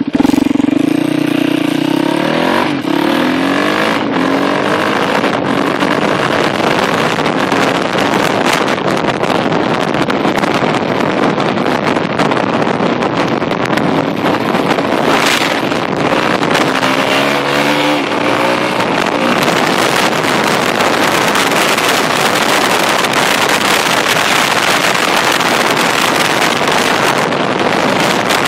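Yamaha WR450F's single-cylinder four-stroke engine revving up as the bike pulls away, then running under way, heard from a phone strapped to the rider's chest with heavy wind rush over it. The engine's pitch rises and falls again about 17 to 19 seconds in.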